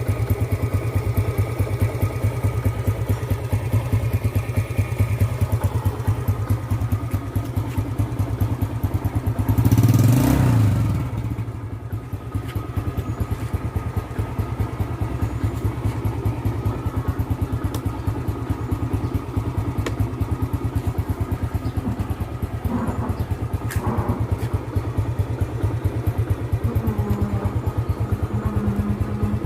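Yamaha Jupiter Z motorcycle's single-cylinder four-stroke engine idling steadily, with one brief rev about ten seconds in.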